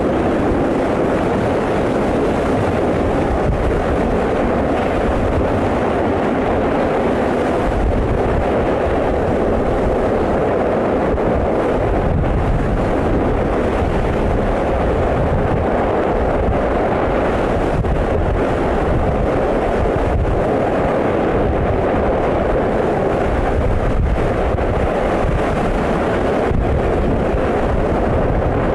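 Steady, loud rumbling roar of an active volcano's lava, mixed with wind buffeting the microphone.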